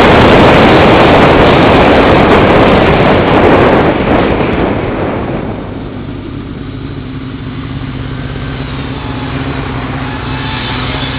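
Motorcycle riding at speed, with heavy wind rush over the mounted camera's microphone. About five seconds in, the wind falls away as the bike slows, leaving the engine running steadily at lower revs.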